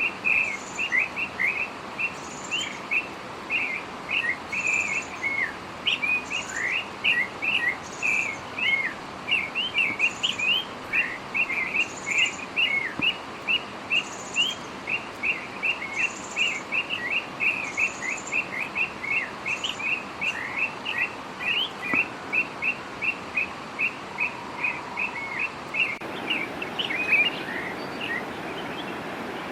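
Northern oriole calling: a fast, steady run of short chirping notes, with a fainter higher note about once a second. The calling stops shortly before the end, leaving a steady outdoor hiss.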